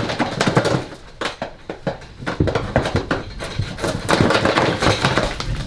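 A young deer's hooves scrambling and clattering against a hard floor, a rapid, irregular run of knocks as the skittish animal is coaxed out.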